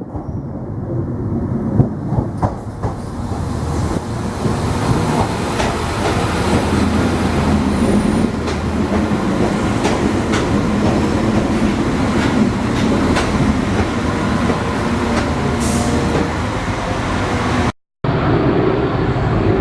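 Diesel train running through the station, its noise building over the first few seconds and then holding steady, with the clicks of wheels passing over rail joints. The sound cuts out abruptly for a moment near the end.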